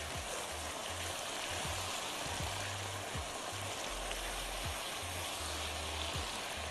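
Diced tomatoes and browned minced beef sizzling steadily in a frying pan as they are stirred: the tomatoes have just gone in on the caramelised meat for a ragù.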